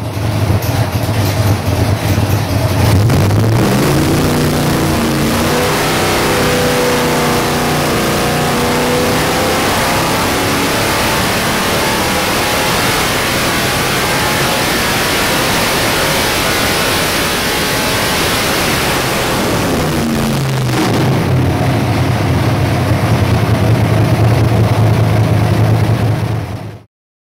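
525 cubic-inch big-block Chevrolet V8 on an engine dynamometer, breathing through an AED 1250 CFM carburetor. It runs steadily at first, then climbs under full load from about 3 seconds in to around 6,100 rpm, where it makes about 788 hp. About 20 seconds in it drops back to a steady lower speed, and the sound cuts off suddenly just before the end.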